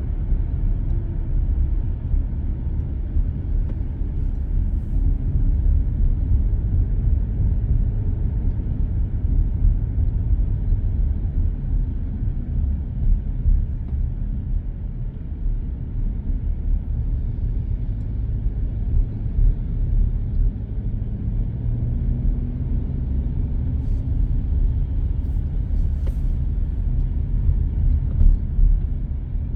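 Steady low rumble of a car driving at expressway speed, mostly tyre and road noise heard from inside the cabin. A few faint clicks sound near the end.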